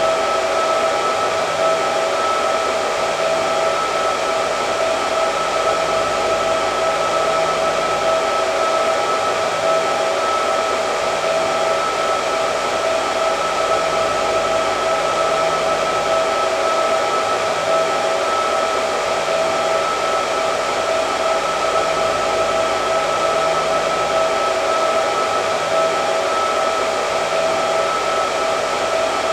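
Hair dryer running steadily: an even rush of air with a steady whine from its fan motor.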